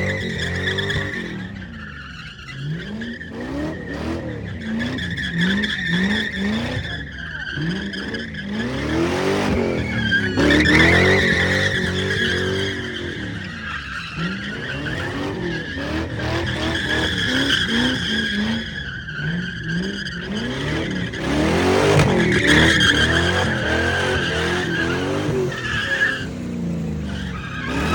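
Car doing burnouts: the engine revs up and down over and over while the tyres squeal steadily.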